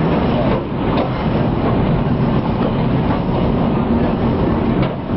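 Tram running along its rails, a steady rumble of wheels on track heard from on board, with a sharp click near the end.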